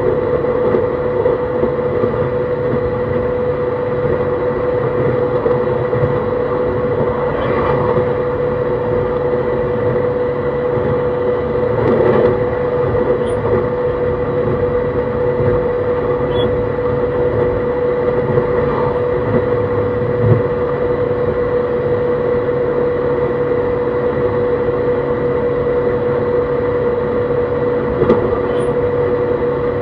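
Running noise of a JR East E131-600 series electric train at steady speed, heard from inside the car: a continuous rumble of wheels on rail with a steady hum from the drive. A few separate knocks from the track come through, the clearest about 12 s and 28 s in.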